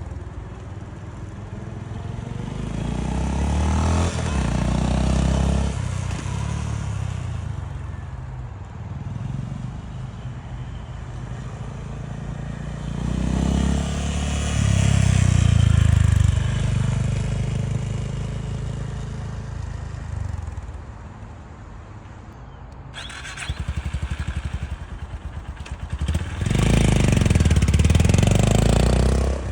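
Honda GB350's air-cooled single-cylinder engine through its stock exhaust, running with a deep low rumble that swells louder and falls back three times. In a quieter spell late on it settles into an even, slower thumping before swelling up once more near the end.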